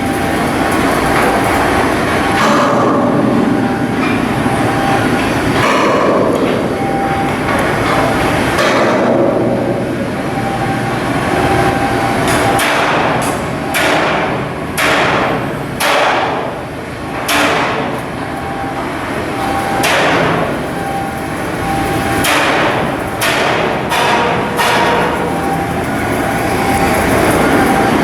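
Steel shipbuilding work: a steady industrial rumble, with a run of irregular hammer blows on steel from about halfway through until near the end.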